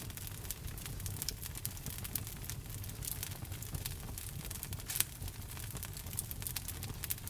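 Wood fire in a fireplace crackling and popping, a stream of irregular sharp snaps over a steady low rumble. One louder pop about five seconds in.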